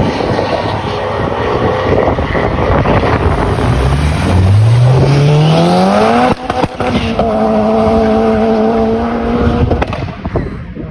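Fifth-generation Honda Civic hatchback accelerating away, the engine revs climbing steadily through a gear. A brief break for a gear change comes about six seconds in. The engine then runs at steady high revs and fades near the end as the car draws off.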